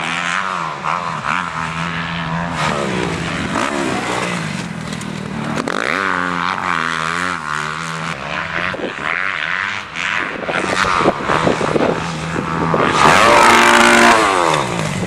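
Dirt bike engines revving, their pitch rising and falling again and again as the throttle is opened and closed. Loudest near the end.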